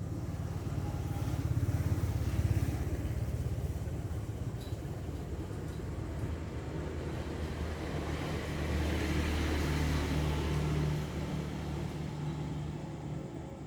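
Motor vehicle engines going by, a steady low hum with tyre noise that swells twice and fades near the end.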